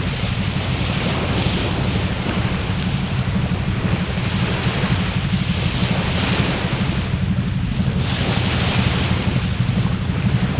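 Wood bonfire burning with a steady rushing hiss that swells and eases, with only a few faint crackles, over a low rumble and a steady high-pitched whine.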